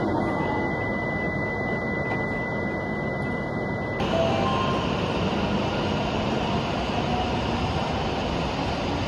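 E7 series Shinkansen train pulling out of the station and running past the platform, a steady rushing rumble of wheels and motors. A thin steady high tone sounds over it for the first four seconds and cuts off abruptly.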